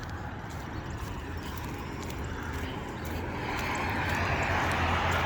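Road traffic: a car's tyre and engine noise approaching and growing louder from about halfway through.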